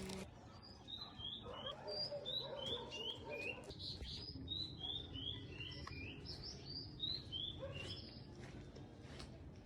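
Small birds singing: runs of four or five short, high, downslurred chirps, about three a second, repeated several times with short pauses between the runs.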